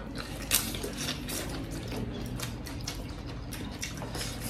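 People chewing food with their mouths close to the microphone, with lip smacks: a run of irregular small clicks and smacks.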